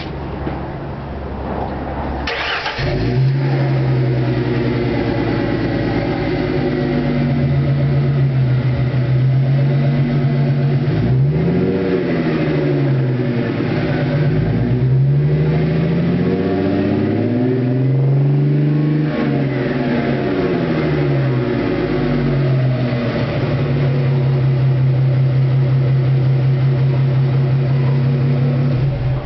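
Exhaust note of a 1998 Ford Mustang's 3.8-litre V6, jumping up about two and a half seconds in and settling to a steady idle. Near the middle it is revved up and back down three times, then idles evenly again.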